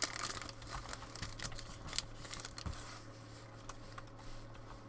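Trading card pack being torn open and its wrapper crinkled, then cards handled, as a run of small crackles and clicks that thin out after about three seconds, over a low steady hum.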